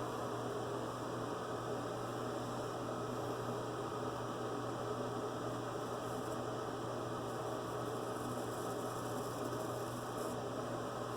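Steady electrical mains hum with a low background hiss, unchanging throughout; no razor strokes or other distinct sounds stand out.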